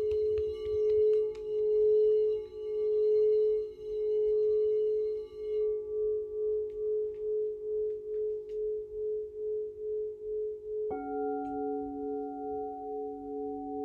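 Crystal singing bowls ringing in a sustained mid-pitched tone that wavers in a beating pulse, slow at first and then about two to three pulses a second. About eleven seconds in, a second bowl is struck and joins with a lower tone and a higher overtone.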